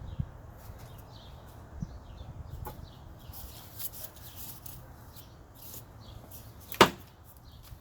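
A heavy-duty floor jack being set in place under the car: scattered light metal clicks and scrapes over a low steady rumble, with one sharp metallic knock near the end.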